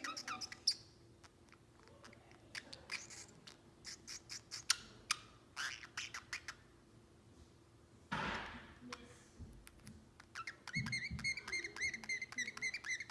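Pacific parrotlet chirping and clicking in short scattered notes, with a short harsh burst about eight seconds in and a rapid warbling chatter near the end.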